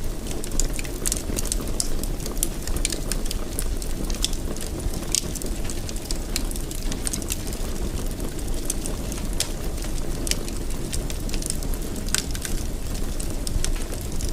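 Wood fire crackling in a fireplace: a steady low rush with frequent sharp pops and snaps scattered throughout.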